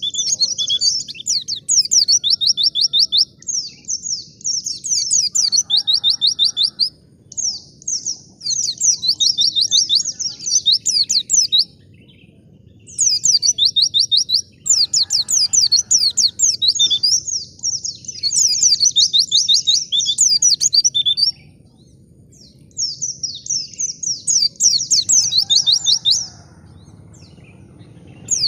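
White-eye (pleci) singing: fast chattering phrases of rapid high, downward-sweeping notes, each burst lasting one to a few seconds with short pauses between.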